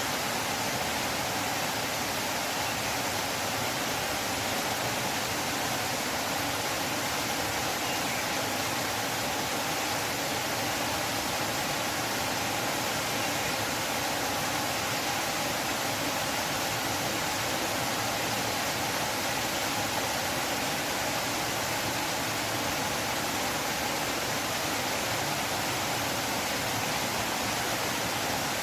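River water flowing, a steady rushing sound with no change in level.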